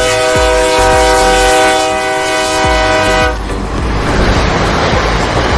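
A long, steady horn blast on one pitch for about three seconds, cutting off abruptly, followed by a loud rushing noise.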